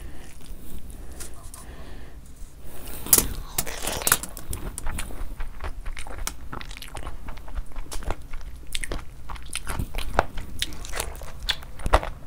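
A person chewing mouthfuls of spicy mutton curry with vegetable pulao, eaten by hand and recorded up close for an ASMR eating video: a dense run of short mouth clicks, loudest about three and four seconds in and again just before the end.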